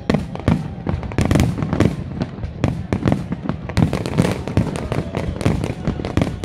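Aerial fireworks exploding in a rapid, continuous barrage of sharp bangs, several a second and sometimes overlapping.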